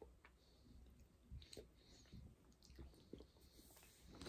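Near silence with faint chewing and small scattered clicks as people eat firm cream-filled gummy candy.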